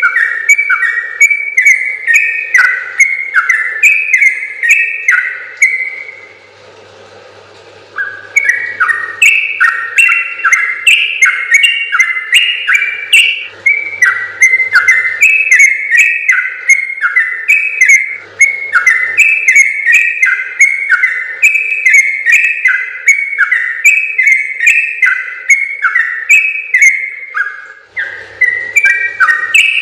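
Yellow-vented bulbul (trucukan) singing a long, fast run of short bubbly whistled notes. It breaks off about six seconds in and starts again about two seconds later, then sings on without a break.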